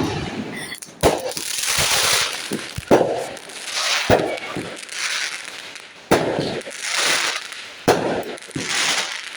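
Fireworks going off: about six sharp bangs one to two seconds apart, each trailed by a crackling hiss.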